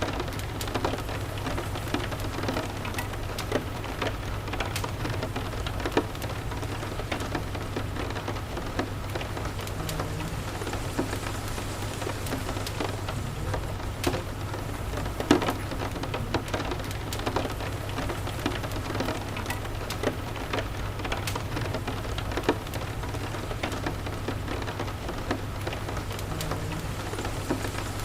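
Steady rain pattering, over a constant low rumble, with scattered sharp pops and crackles from a wood fire in a fireplace; the loudest pop comes about halfway through.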